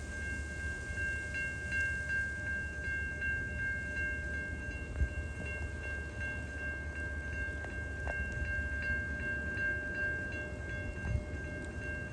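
TasRail freight train led by TR12 rounding a curve: a steady low rumble with a high, steady ringing tone over it that pulses about three times a second. A single knock about five seconds in.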